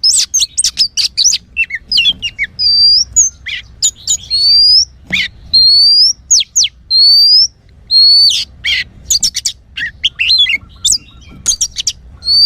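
Oriental magpie-robin (kacer) singing loudly: a fast, varied run of chirps and scratchy notes mixed with clear, rising whistles, with brief gaps between phrases.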